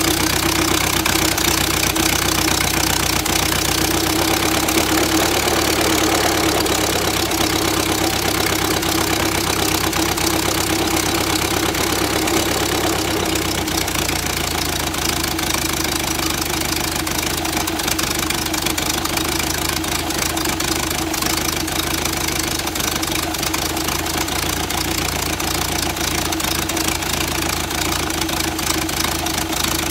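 Ford Model A four-cylinder flathead engine running steadily on a test stand through a short open exhaust stack. This is its second run after rebuilding, and it is running good.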